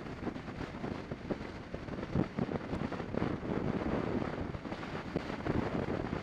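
Wind buffeting a camera microphone on a moving motorcycle: a constant gusty roar with irregular thumps.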